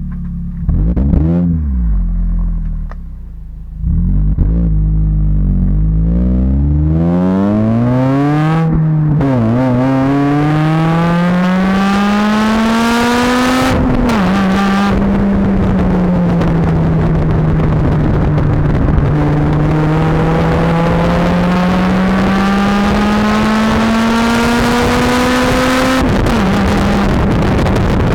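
Honda Civic Type R FN2's 2.0-litre i-VTEC four-cylinder engine through a Magnaflow exhaust, blipped a couple of times and then accelerating hard. The pitch rises steeply and drops at upshifts about 9 and 14 seconds in, then climbs slowly and steadily until another shift near the end.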